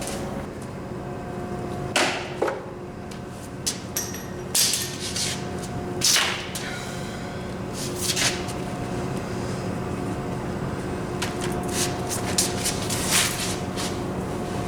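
Scattered clicks and knocks of a socket ratchet and hand tools as bolts are tightened into a wooden anvil stand, at irregular intervals over a steady low hum.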